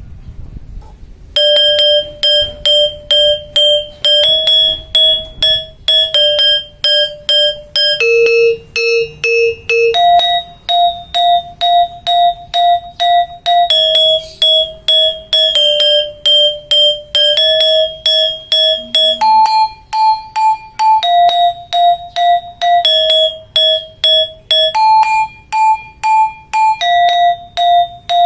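Balinese gangsa, a bronze-keyed metallophone, played alone in its polos part: single struck notes at an even pace of about four strokes a second, each pitch repeated several times before stepping to the next, the keys ringing briefly between strokes. The playing starts about a second and a half in.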